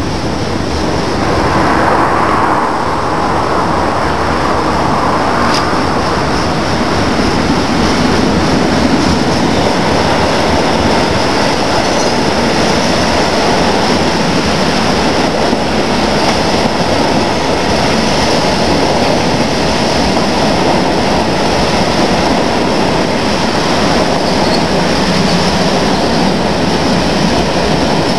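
A freight train's wagons running past on the rails, a steady rumble and clatter of wheels.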